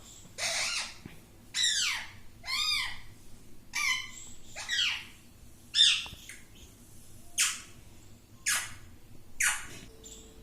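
Pet parrot squawking in a string of short, sharp calls, about nine of them roughly a second apart, each with a falling or arched pitch.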